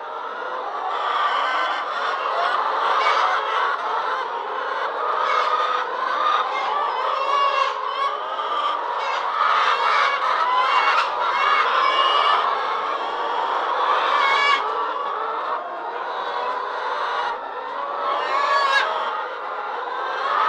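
Broody hen clucking among a brood of chicks peeping continuously, with many short high chirps that fall in pitch.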